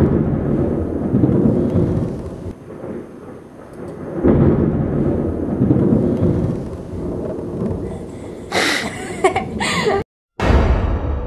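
Thunder rolling over rain: three heavy rumbling rolls, one at the start, one about four seconds in and one near the end after a brief cut-out, with a higher wavering noise just before the last roll.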